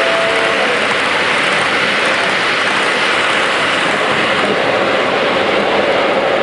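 Model train running on a layout track: a steady rolling rumble and hiss from wheels on rail, with a brief pair of steady tones at the start.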